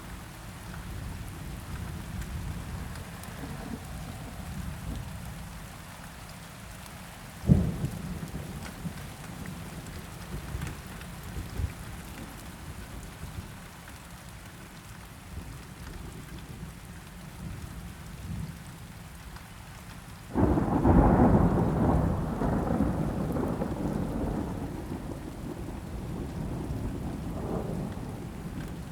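Steady rain falling, with a sharp clap of thunder about a quarter of the way in. A long, loud roll of thunder breaks in about two-thirds of the way through and slowly fades.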